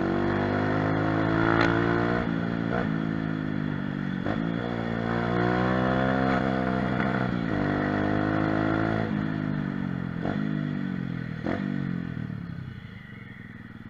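Mini moto (pit bike) engine running while being ridden, its note climbing and dropping in pitch several times as the throttle is opened and closed, with a few short knocks. The engine fades near the end.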